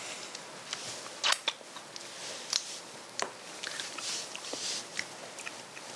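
Someone chewing a bite of freshly seasoned radish kimchi, with scattered crisp crunches.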